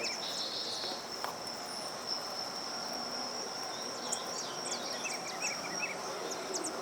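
A steady high-pitched insect trill, with birds chirping over it in quick short notes that come thicker from about four seconds in.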